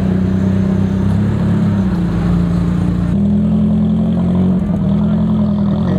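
A car engine running steadily, with a constant low drone.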